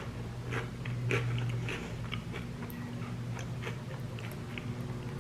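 Close-up chewing and biting of Flamin' Hot Cheetos coated in nacho cheese and sour cream: a run of small, irregular crunching clicks over a steady low hum.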